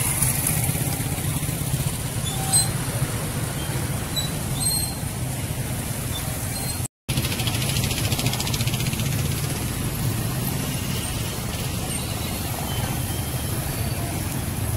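Steady road traffic rumble, with a few short, faint high chirps of birds now and then. The sound cuts out completely for a moment about seven seconds in.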